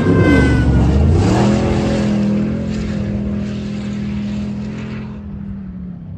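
Rally car engine accelerating hard: its pitch climbs over the first second or so, then holds steady at high revs, and the sound fades away about five seconds in.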